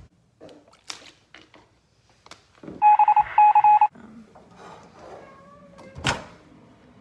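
An electronic device beeping: a quick run of same-pitched beeps for about a second, the loudest sound here, after a few light clicks, with a sharp knock near the end.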